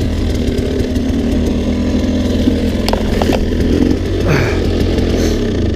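Dirt bike engine running steadily at one speed, cutting off just before the end.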